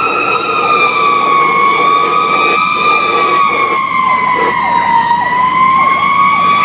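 Fire engine siren wailing on a response run: a loud steady tone that sinks slowly in pitch and climbs again near the end, with a second, faster-cycling siren sweep underneath.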